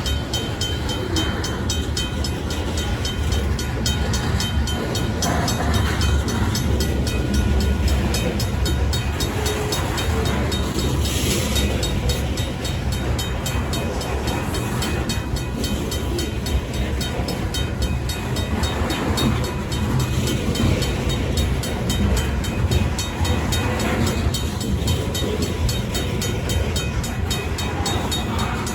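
Union Pacific freight train rolling through a road crossing with a steady low rumble, while the crossing's RACO mechanical bell keeps ringing in quick, even strokes.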